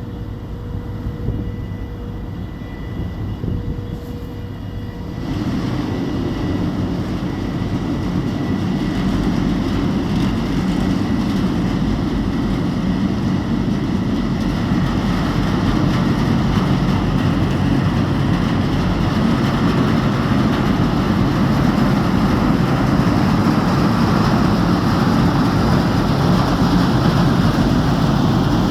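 Car ferry's engines and propeller wash as it comes into port: a steady low drone that jumps louder about five seconds in and keeps building.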